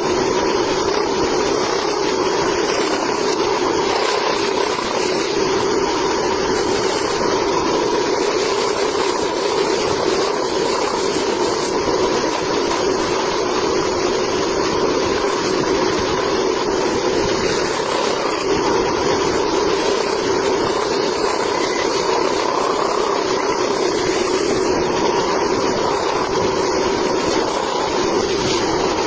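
Mini band saw running steadily, its motor and blade giving an even hum over a hiss.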